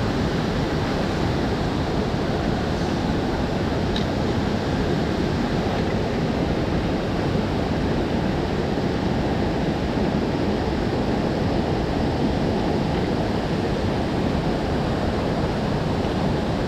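Mountain stream water rushing steadily, a constant even roar of flowing and falling water.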